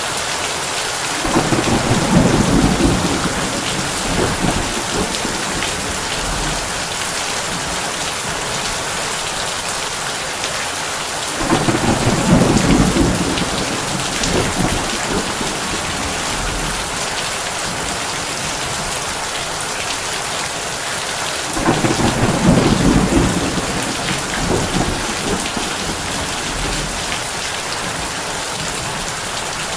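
Heavy rain pattering steadily on a tin roof, with low thunder rumbling three times, about ten seconds apart.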